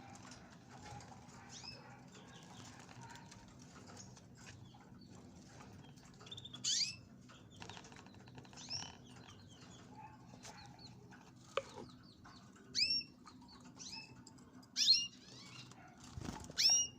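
Canaries and goldfinches at their bath, giving about five short, loud chirps in the second half over soft fluttering and rustling of wings. A low steady hum runs underneath.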